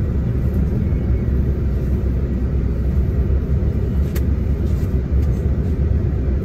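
Coach bus heard from inside the cabin: a steady low rumble of engine and road, with one short click about four seconds in.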